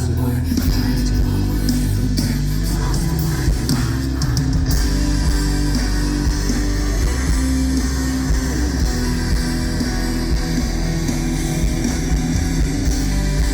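Rock band playing live: electric guitars over bass and drums.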